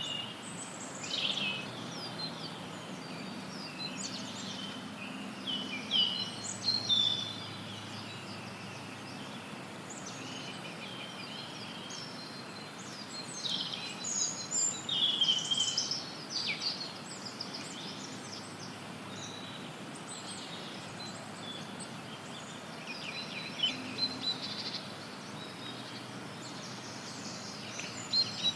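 Wild songbirds chirping and trilling in scattered bouts over a steady hiss of added background noise.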